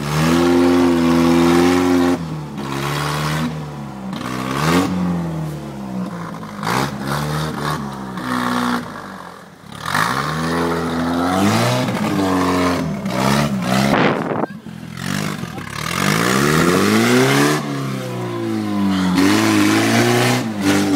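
Off-road 4x4's engine revving hard again and again, its pitch climbing and dropping every second or two as the wheels work through deep mud.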